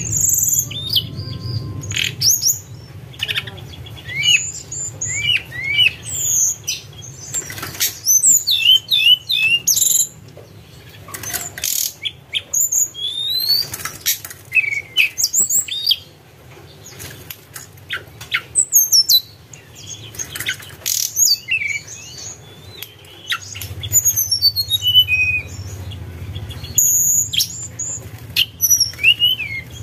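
Tledekan gunung (snowy-browed flycatcher) singing: a busy run of thin, high chirps and short whistled slides, some falling and some rising, in quick broken phrases over a low steady hum.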